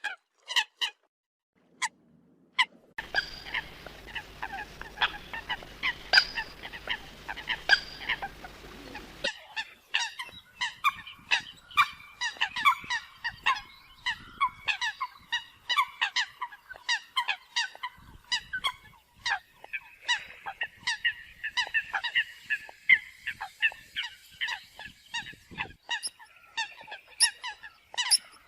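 A flock of Eurasian coots calling: many short, honking notes overlapping and repeated in quick succession. Briefly quiet just after the start, and a low hum runs under the calls for several seconds from about three seconds in.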